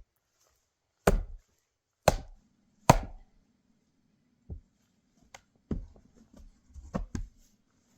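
Axe splitting firewood on a chopping block: three hard blows about a second apart, followed by several lighter knocks of wood.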